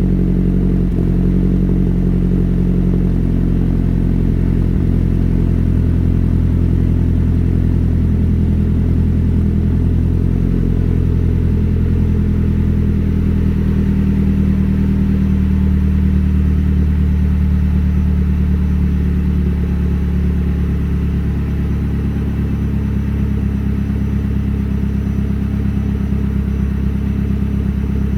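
Mazdaspeed's 2.3-litre turbocharged four-cylinder idling after a cold start, heard through a Magnaflow turbo-back exhaust with a catted downpipe. The exhaust note is steady, and the idle eases slightly lower and quieter about two-thirds of the way through.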